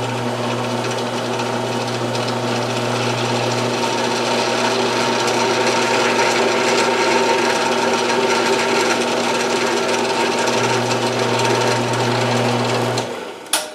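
RF30 round-column mill-drill switched on with a click, its motor and spindle running steadily with a strong hum for about thirteen seconds, then switched off with a second click near the end.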